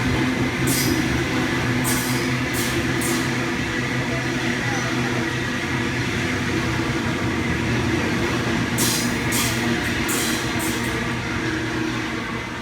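Electric suburban passenger train running slowly through a station: a steady hum with a few short hissing bursts near the start and again about three-quarters of the way through, the sound easing off near the end as it moves away.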